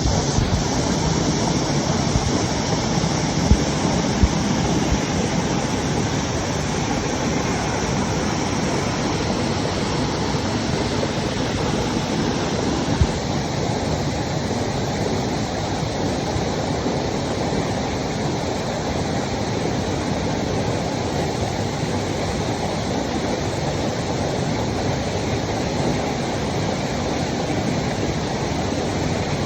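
Steady rush of water from a waterfall, with a few brief low thumps.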